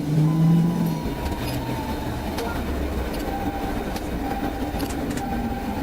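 Steady road rumble of a vehicle driving at speed, as heard from a police car's onboard recording, with a couple of steady tones in the first second.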